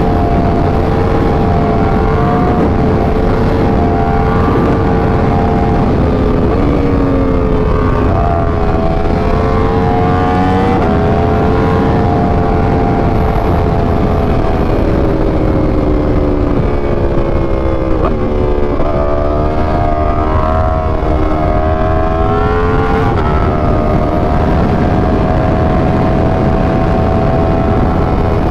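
Yamaha R1's crossplane inline-four engine running at road speed under heavy wind rush on the microphone. The engine note holds steady, then dips and rises several times with the throttle, climbing in a quick rev about two-thirds of the way through.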